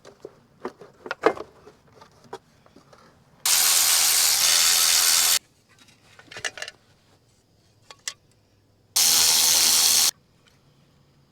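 Metal tools clinking against the engine, then two loud, steady blasts of a pneumatic tool, the first about two seconds long and the second about one, each starting and stopping abruptly.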